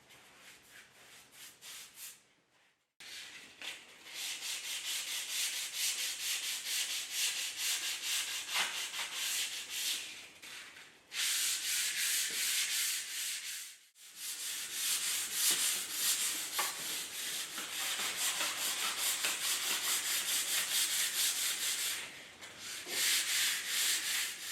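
Sandpaper rubbed by hand over a wooden surface in quick back-and-forth strokes, about four a second. It breaks off abruptly twice, about three seconds in and near the middle, then starts again.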